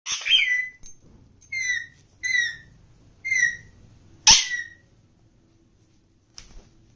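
Indian ringneck parakeet calling: five short, shrill calls in the first four and a half seconds, each dipping slightly in pitch, the last the loudest.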